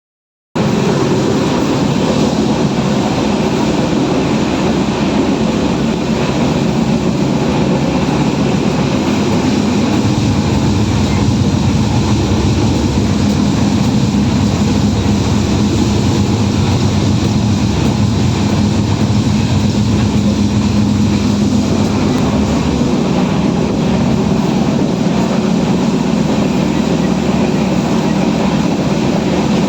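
Loud, steady rumble and rattle of a moving Indian Railways passenger train, heard at the joint between two coaches.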